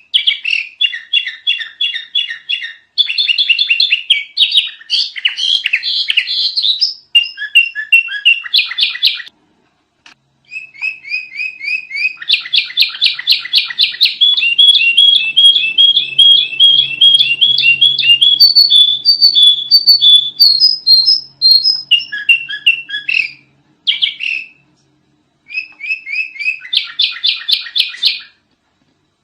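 Sooty-headed bulbul (kutilang) chattering and singing loudly in fast runs of repeated high notes, broken by short pauses about a third of the way in and again near the end.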